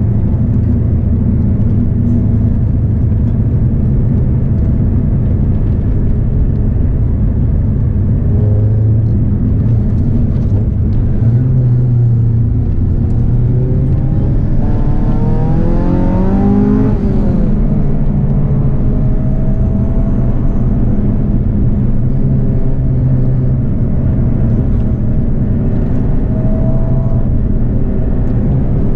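Honda Civic EK hatchback engine running hard, with a steady, loud engine note. Its pitch rises and then falls about halfway through.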